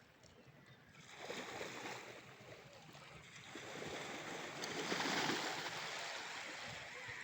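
Ocean waves washing up a sandy shore: a wash of surf swells in about a second in, then a bigger one builds to its loudest around five seconds in and slowly fades.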